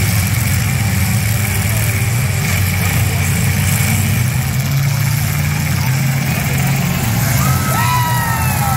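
Several demolition derby cars' V8 engines running together as a steady, loud low rumble. A voice comes in near the end.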